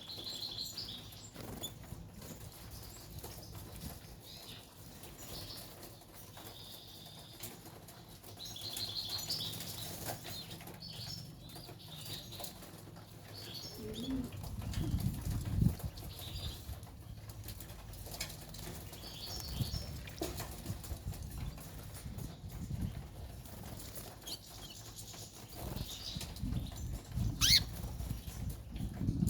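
White canaries fluttering, with bouts of wing-flapping and short high chirps now and then.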